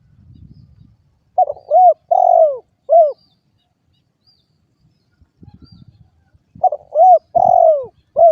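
A derkuku (spotted dove) cooing: two phrases of about four short, clear coos each, one early and one near the end, with a faint low rumble before each phrase.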